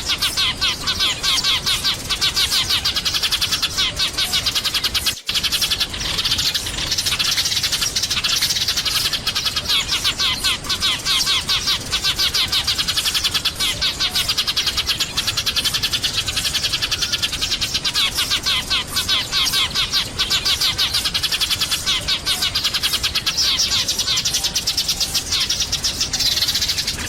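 A flock of sparrows chirping and twittering continuously in a dense, rapid chatter, with a split-second break about five seconds in.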